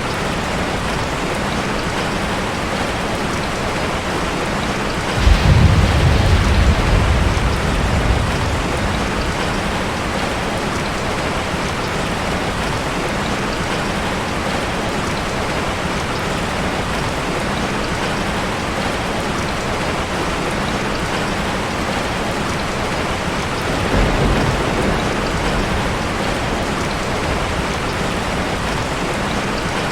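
Steady heavy rain falling. A low rumble of thunder starts suddenly about five seconds in and fades over a few seconds, and a weaker rumble comes near the end.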